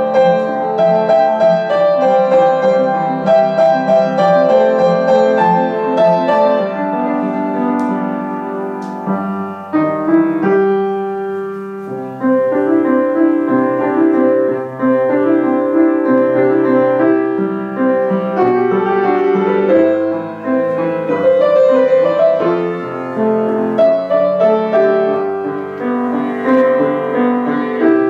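Piano playing a melodic piece, with a brief softer passage about ten seconds in before fuller playing resumes.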